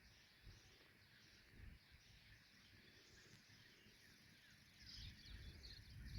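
Faint high chirping of small birds, a little louder about five seconds in, with a few soft low thumps.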